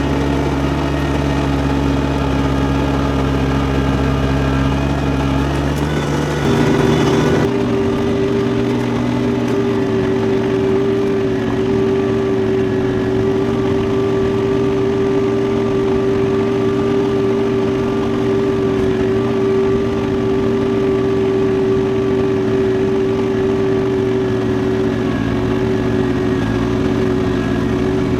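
Engine of a John Deere compact three-cylinder diesel tractor running steadily while snowblowing. Its note changes abruptly about seven seconds in, with a brief louder spell, then holds steady again.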